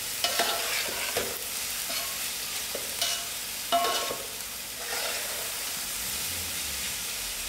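Sliced cabbage frying in oil in a large metal pot, sizzling steadily, as a metal spoon stirs through it, scraping the pot and clinking against it a few times; brown sugar has just gone in and is being stirred through so the cabbage browns.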